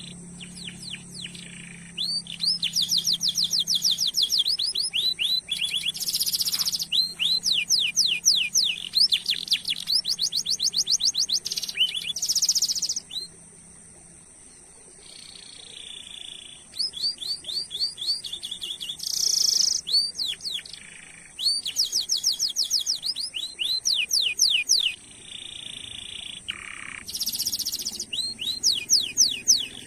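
Domestic canary singing: long runs of fast, repeated high sweeping notes, broken by short pauses and a few buzzy held phrases.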